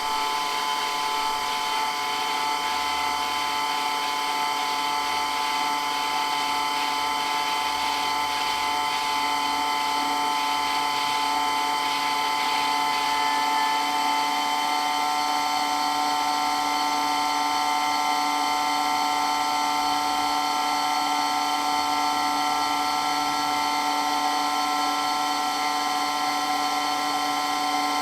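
Water pump running steadily and very loudly, a continuous whine made of several pitches at once; a lower hum joins in about nine seconds in.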